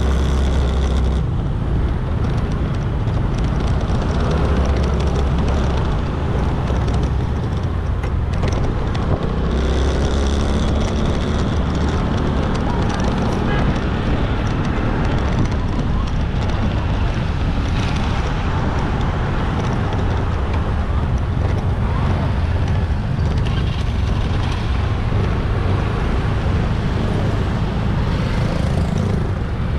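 Motorbike riding through busy road traffic: a steady engine and road noise with wind buffeting on the microphone and passing vehicles around it.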